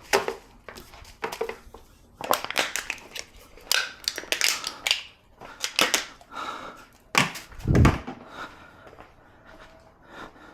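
Irregular knocks, clacks and scraping of car interior parts being handled and pulled loose during a teardown, with a heavy thud about seven to eight seconds in.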